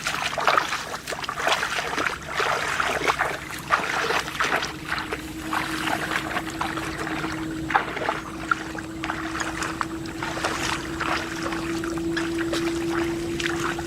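Water splashing and sloshing in short, irregular strikes in shallow floodwater, over a steady mechanical hum. A second, higher hum joins about four seconds in.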